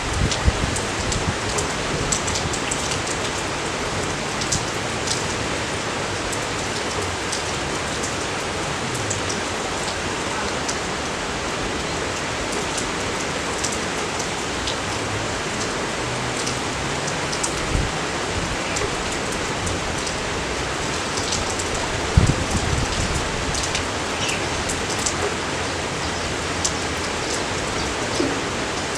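Steady rain falling over rice paddies: an even hiss flecked with many close drop ticks, and a few low thumps, the strongest about two-thirds of the way in.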